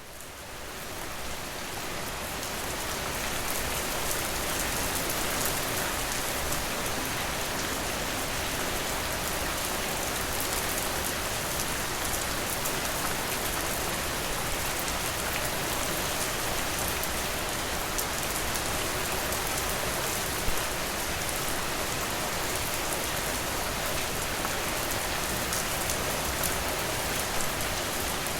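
Steady rainfall, a dense patter of drops, fading in over the first few seconds and then holding even, with a single louder drop about twenty seconds in.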